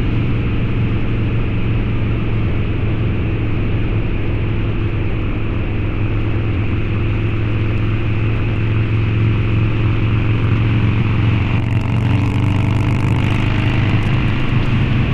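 Harley-Davidson Low Rider's 129 ci V-twin running through a Two Brothers Racing exhaust at a steady cruise, its engine note holding at an even pitch. A brief rise in hiss comes about twelve seconds in.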